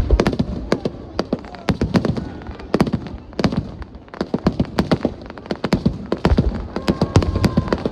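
Fireworks bursting, a rapid run of sharp bangs and crackles coming in clusters.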